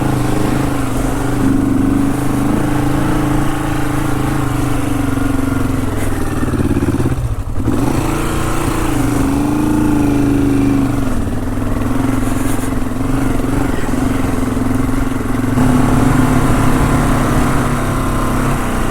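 Honda CL450's parallel-twin engine pulling the motorcycle up a steep, loose off-road climb, with the engine note under steady load. About seven seconds in it dips briefly, then picks up and rises and falls. It gets louder from about fifteen seconds in.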